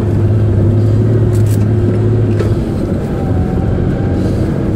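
Nissan GQ Patrol 4WD's engine heard from inside the cab, droning steadily as it drives at low speed over rocky ground, then easing off a little over halfway through.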